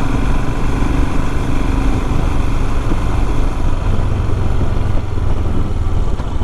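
Royal Enfield Himalayan's 411 cc single-cylinder engine running steadily while the motorcycle is ridden, under a steady rush of wind and road noise.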